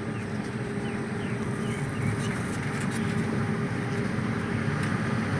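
Passenger train departing a station, a steady low rumble of the moving train that grows gradually louder.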